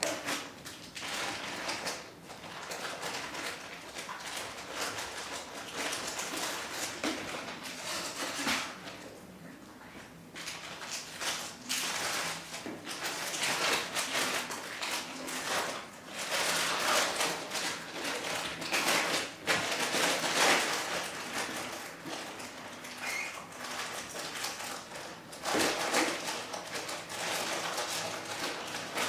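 Chihuahua puppies moving about and playing, with continual rustling and scuffling and a few faint high squeaks.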